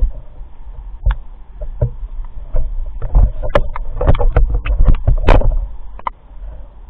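A rapid, irregular run of knocks and thumps over a low rumble, busiest and loudest in the middle and easing off near the end.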